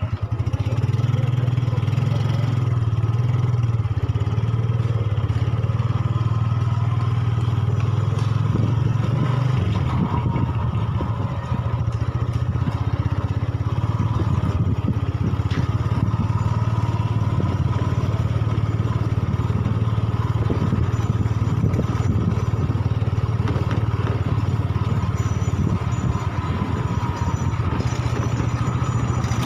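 Motorcycle engine running steadily while being ridden, its note dropping slightly about ten seconds in.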